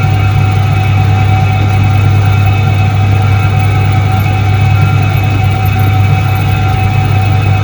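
Soviet Iset-3 washing machine from 1978 running, its electric motor giving a steady, unchanging low hum with a fainter whir over it.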